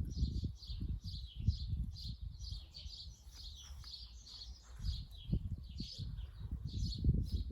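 A small bird chirping over and over, about three high chirps a second, with irregular low rumbling noise underneath.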